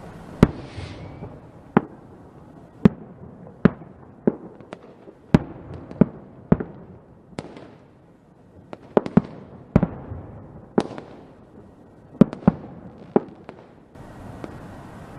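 Fireworks going off: a string of sharp bangs at irregular intervals, some in quick pairs and clusters, over a steady background hiss. About half a second in, one bang is followed by a short crackling fizz.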